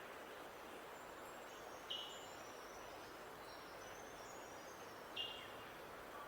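Songbirds outdoors: two short, sharp chirps about three seconds apart, with faint high twittering from other birds between them, over a steady background hiss.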